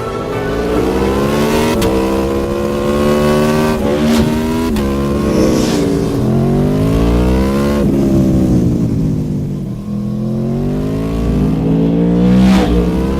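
Racing motorcycle engine accelerating hard through the gears: the pitch climbs and breaks at each upshift, drops away for a couple of seconds past the middle as the bike slows, then climbs again through the gears.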